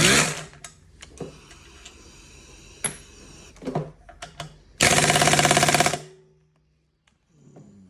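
Impact wrench hammering on a rusted engine bolt: a short burst at the start, a few tool clicks, then about a second of rapid hammering past the middle that cuts off.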